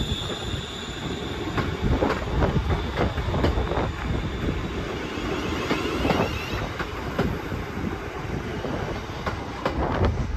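ScotRail Class 380 electric multiple unit running past and away, a steady rumble of wheels on rail with irregular clacks as the wheels cross the track. A thin high whine fades out within the first second.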